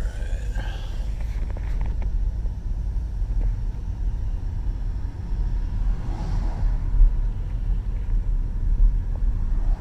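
Steady low rumble of a car on the move, with a few faint brief sounds over it.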